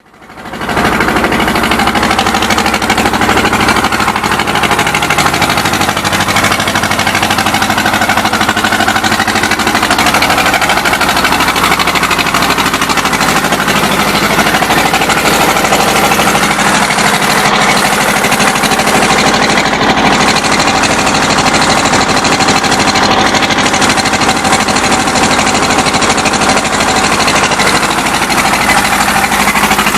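Marine engine running loudly at a steady, unchanging speed.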